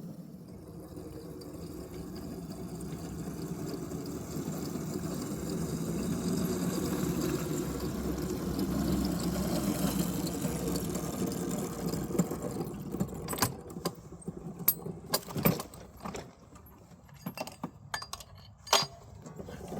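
Small 7-1/4 inch gauge electric locomotive running, a steady drone of motor and wheels on rail that swells slightly and then dies away about two-thirds of the way through. A run of sharp metallic clanks and clicks follows, one loud clank near the end.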